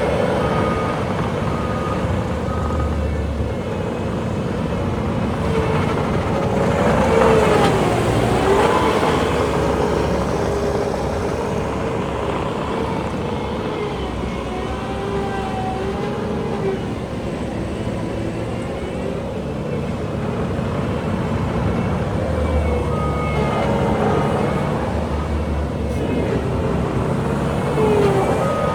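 Bobcat T740 compact track loader's diesel engine and hydraulics running under work, with a whine that rises and falls in pitch several times as the machine is operated.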